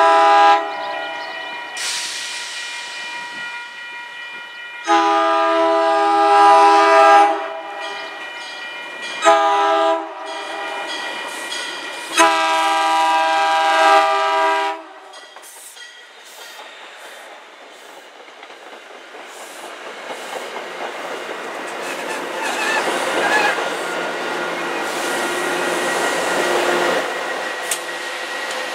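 Commuter rail train horn sounding a chord in the grade-crossing pattern: the end of a long blast, then a long, a short and a long, as the train approaches. Then the cab car, coaches and locomotive pass with a rumble of wheels on rail that grows louder toward the end.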